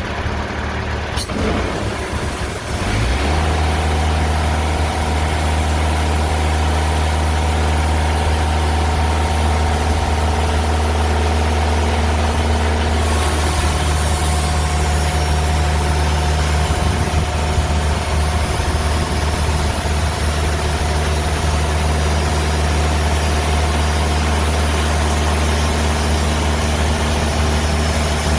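Diesel engine of a TimberKing 2000 band sawmill running steadily while slabbing a log, stepping up to a louder, deeper hum about three seconds in and holding there.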